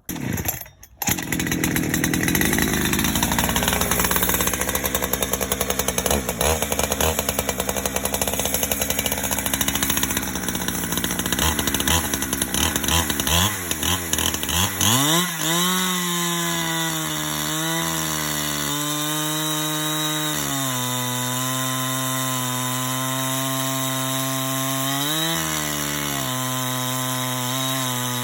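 Chainsaw fitted to a chainsaw mill, starting suddenly and running rough for the first half. Just past halfway it revs up in a rising whine into a steady high-speed run, with a few brief dips and surges in pitch.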